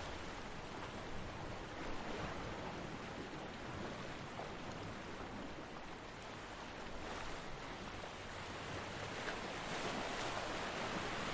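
Ocean surf washing on a beach, a steady rush of breaking waves that eases off briefly midway and swells louder again near the end.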